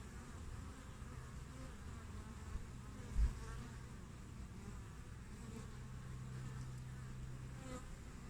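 Honeybees (Apis mellifera) buzzing at a hive entrance: a steady hum of many wingbeats. A brief low thump about three seconds in.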